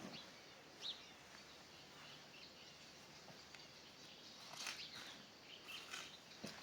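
Faint outdoor ambience with a few brief, high bird chirps, one about a second in. A handful of soft clicks come later on.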